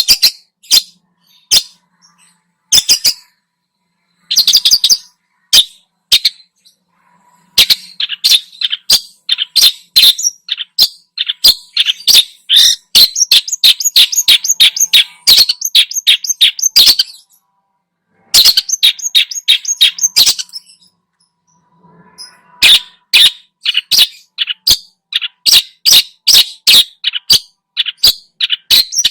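Long-tailed shrike (cendet) singing loudly in fast runs of sharp, chattering notes, with two short pauses: about a quarter of the way in and about two-thirds through.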